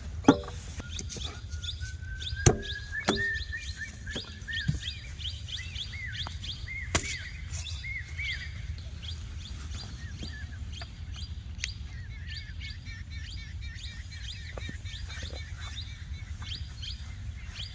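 Small birds chirping over and over, with a steady low rumble underneath and a few sharp knocks in the first seven seconds.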